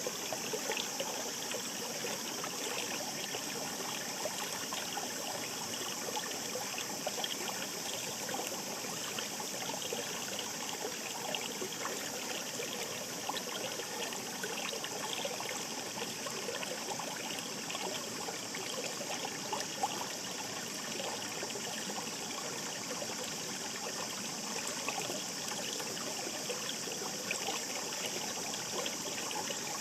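Shallow brook flowing steadily: a continuous murmur of small trickles and splashes.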